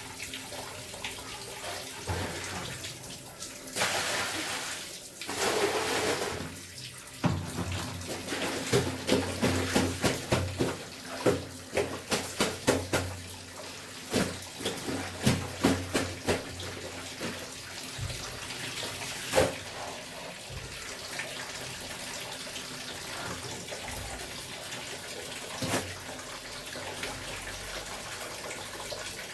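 Water running from a tap while clothes are washed by hand, with a run of quick, rhythmic strokes of wet cloth being worked, about two or three a second, for several seconds around the middle.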